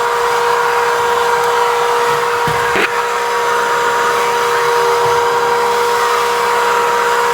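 A steady electric motor running with a constant whine, like a fan or vacuum motor.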